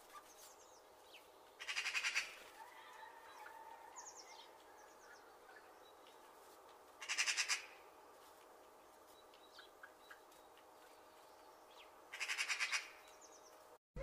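Bird calling: a loud, rapid rattling call, repeated three times about five seconds apart. Faint short chirps from other birds come in between.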